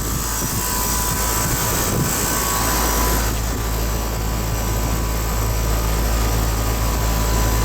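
Carrier base-model central air conditioner condenser unit running steadily: a low compressor hum under the steady rush of its fan.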